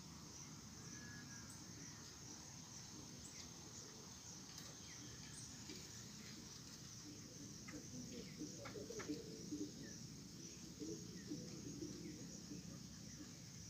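Faint mesquite-woodland ambience: a steady high insect buzz, with scattered short bird chirps. A few seconds past the middle comes a spell of rustling and a few sharp clicks.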